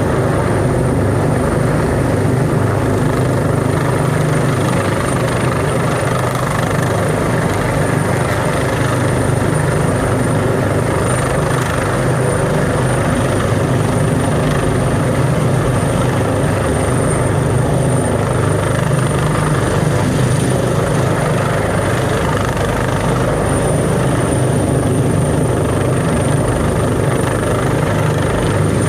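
Helicopter hovering, loud and steady, its rotor beating low with a thin high whine held above it.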